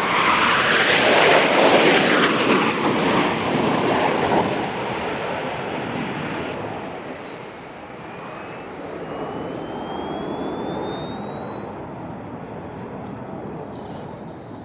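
Fixed-wing aircraft engine noise, loud at first and fading over several seconds, as an aircraft passes and moves away. A thin whine rises steadily in pitch through the second half.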